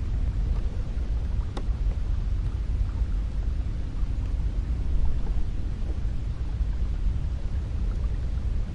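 Cold wind blowing in a steady low rumble, with one faint tick about one and a half seconds in.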